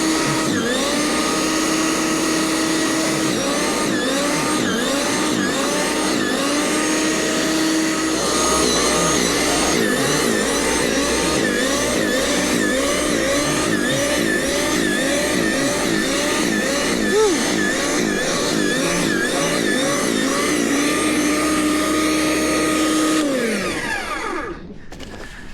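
A gasoline engine running steadily. For most of the time its pitch rises and dips over and over, about once every second or less. Near the end it is shut off and winds down to a stop.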